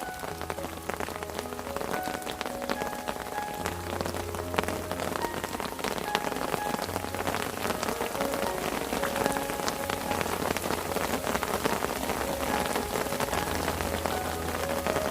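Rain falling steadily on a fishing parasol, a dense patter of individual drops on the canopy, with soft held music notes underneath.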